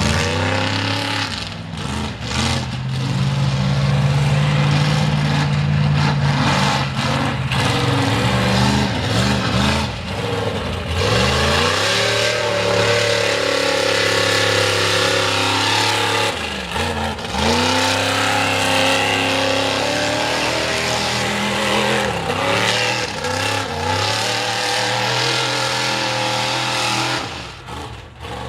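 Mega truck engine revving hard under load. The engine note dips sharply and climbs again about four or five times as the throttle is let off and reapplied.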